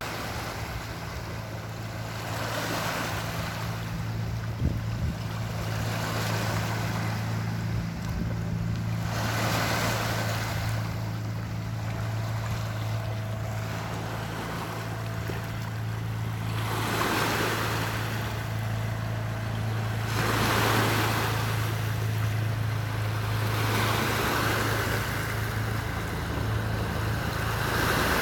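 Sea waves washing in, the rush swelling and fading every few seconds, over a steady low motor hum.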